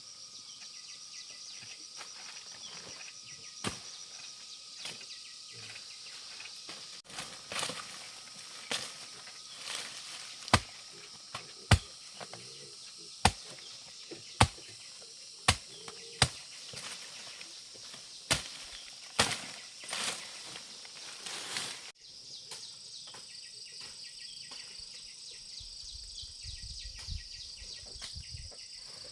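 Machete chopping through brush and undergrowth: a run of sharp chops, about one a second, through the middle stretch. Insects hum steadily in the background.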